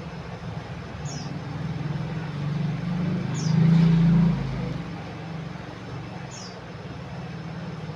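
A small songbird gives a short, high, falling call three times, a few seconds apart. Under it runs a steady low hum that swells to its loudest about three and a half seconds in, like a passing vehicle.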